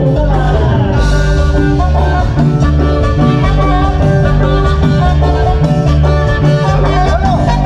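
Live cumbia band playing, with a steady repeating bass line under sustained instrument lines, recorded on the camera's own microphone.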